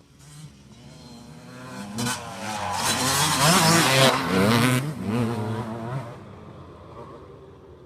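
Motocross bike engine revving up and down through the gears as it passes close by, building to its loudest about three to five seconds in, then fading away.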